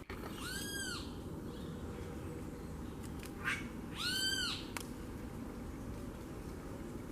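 A bird calling twice, about three and a half seconds apart; each call is short and arched, rising then falling in pitch. A steady low rumble runs underneath.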